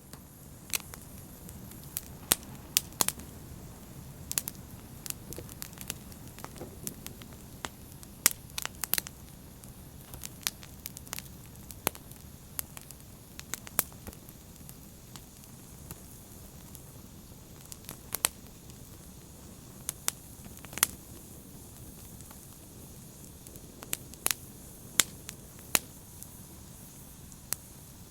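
Open fire burning with a steady low rush and frequent, irregular sharp crackles and pops, several of them loud.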